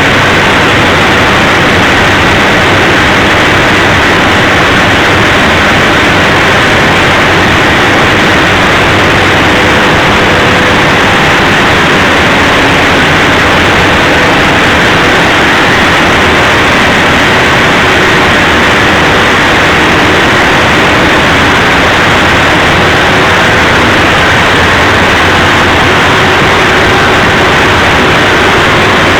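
Large diesel generator engines running in a power-station engine hall: a loud, steady, unbroken din with no change in speed.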